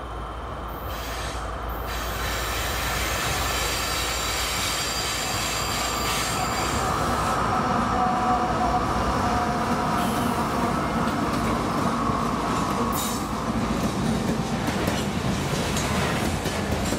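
Two CSX GE diesel locomotives approach and pass close by, their engines running, then covered hopper cars roll past with steady track noise and a high-pitched wheel squeal. The sound grows louder over the first few seconds as the train nears.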